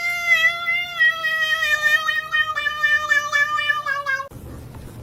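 A cat's long, drawn-out yowl, one sustained call slowly falling in pitch and wavering in its second half, cutting off abruptly about four seconds in.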